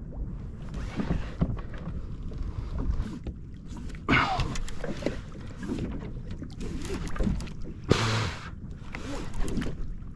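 Water sloshing and splashing against a fishing kayak at sea, over a low wind rumble on the microphone, with two louder rushes of water about four and eight seconds in.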